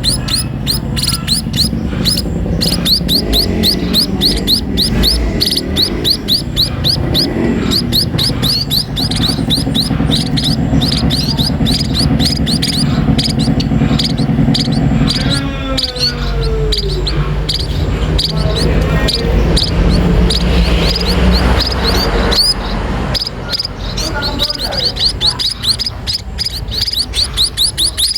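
Sparrows (burung pipit) chirping rapidly and without a break, several short high chirps a second, as they are fed.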